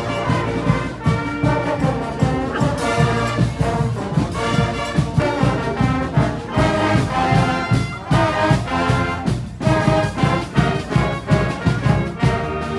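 Brass band music, trumpets and trombones playing a lively tune over a steady drum beat.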